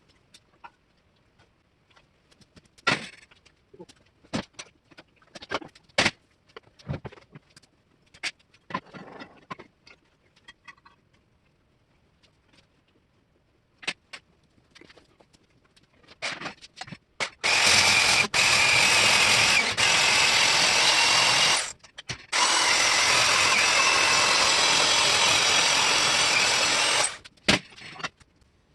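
Steel being worked on a truck flatbed frame. Scattered knocks and taps of metal parts come first. After that there are two long runs of steady, loud power-tool noise, about four and five seconds long, each cutting off sharply.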